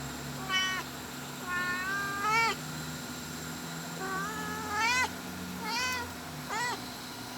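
Mother cat meowing repeatedly, calling for her kittens: about seven short meows, several rising in pitch at the end.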